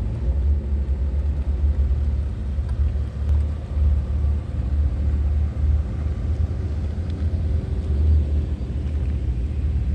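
A car running, heard as a steady low rumble of engine and road noise.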